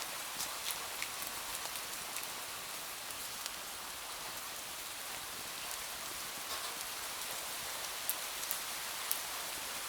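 Steady rain falling on window glass, an even hiss dotted with scattered sharp ticks.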